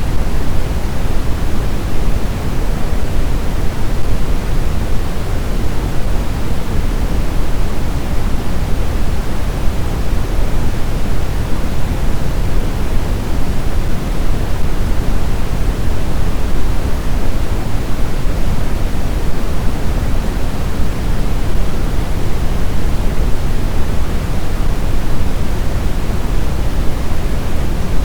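Blizzard wind as a steady, deep rushing hiss, heaviest in the low end, with no gusts, swells or other sounds.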